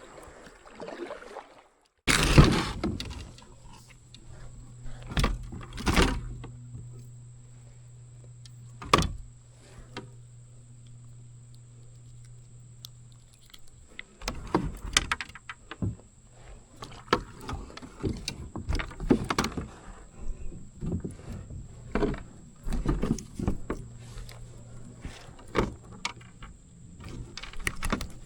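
Irregular knocks and thuds on a kayak as a caught bass and gear are handled aboard, some loud, over a low steady hum that fades out about halfway through.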